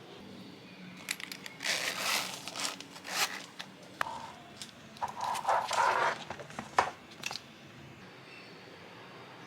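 Crinkling and rustling of something being handled, in irregular bursts over several seconds, with a sharp click about four seconds in.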